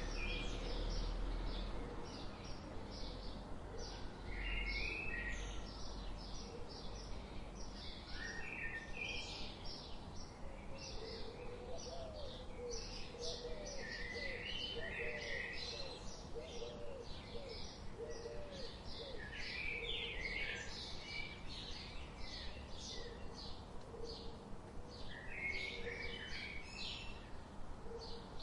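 Several birds chirping and trilling in quick, overlapping bursts, with a lower, softer call repeated many times in the middle.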